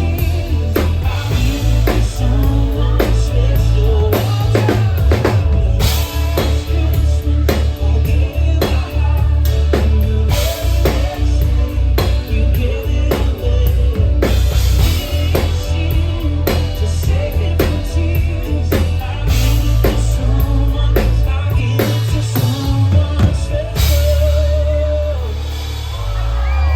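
Live amplified band music: a drum kit keeping a steady beat over heavy bass, with some singing. The loudness dips briefly near the end.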